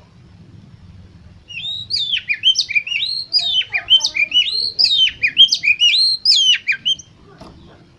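Oriental magpie-robin singing a fast, varied run of swooping notes for about five seconds, starting about a second and a half in.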